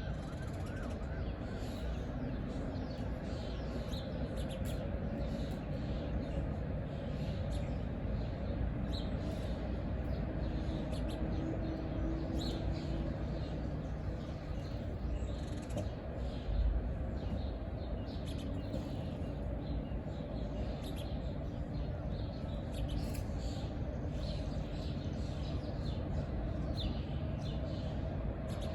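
Birds chirping now and then, short high calls scattered over a steady low rumble.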